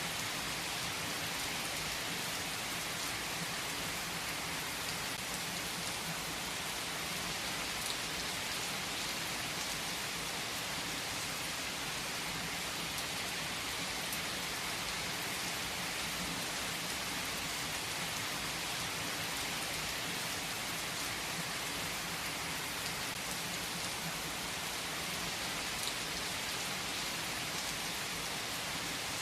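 Steady rain falling, an even hiss with a few louder single drops standing out now and then.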